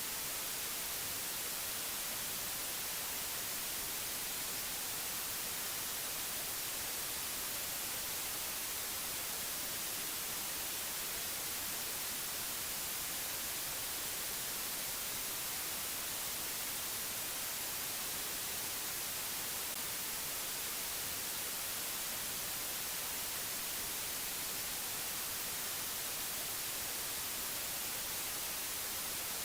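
Steady, unchanging hiss of white noise, brighter in the high frequencies, with no other sound.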